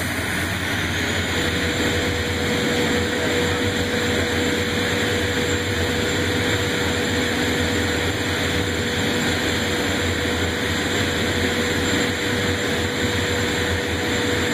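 Garrett F109 turbofan spooling up to go-around power: a high whine rises in pitch over the first second. The engine then runs steadily at high power, with a steady mid-pitched tone joining about one and a half seconds in.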